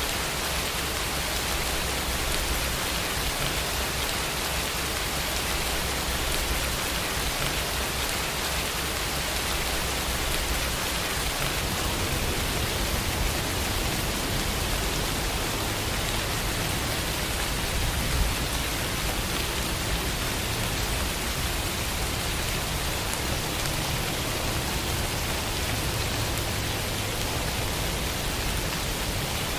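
Steady, even rainfall, a continuous hiss of rain on surfaces.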